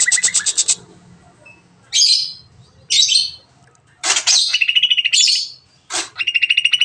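Cucak ijo (green leafbird) singing its rapid 'nembak' song: a fast run of repeated notes that stops under a second in, then two short harsh scratchy calls, then loud calls breaking into fast trills of repeated notes from about four seconds in.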